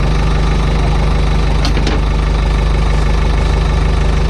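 Isuzu 4BD1T four-cylinder direct-injection turbo diesel idling steadily just after a cold start below freezing. Two brief clicks come about halfway through.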